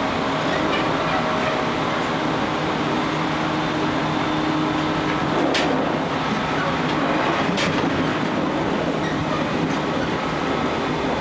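JR Kyushu 813 series electric train with Toshiba GTO inverter control, running and heard from inside: a steady rumble of wheels on rail with faint steady tones. Two sharp clacks come about five and a half and seven and a half seconds in.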